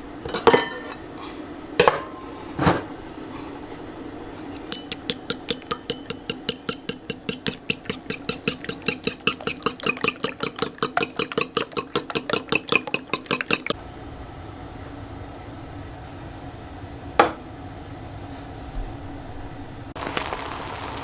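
Kitchen dishes clattering a few times, then a utensil striking a bowl or dish in a fast, even rhythm, about five strokes a second for some nine seconds, with one more sharp clatter afterwards.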